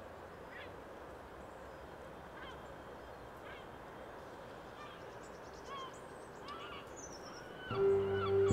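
Faint steady background hiss with scattered short bird chirps every second or so. Near the end a held low note with a second pitch above it starts, the soundtrack music coming in.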